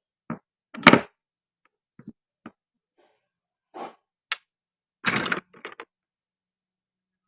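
Toy fruit and vegetables being cut and handled: a string of short, irregular knocks and clacks, the loudest about a second in and a quick cluster about five seconds in, then silence.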